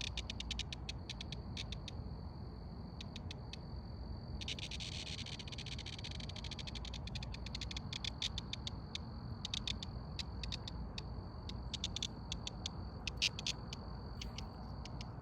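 Insects calling: a steady high-pitched trill with repeated bursts of rapid clicking chirps, over a low background rumble.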